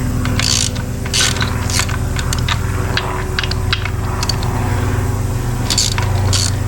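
A steady low machine hum with many sharp metallic clicks and short scrapes over it, the sound of hand work on metal parts close to a running motor.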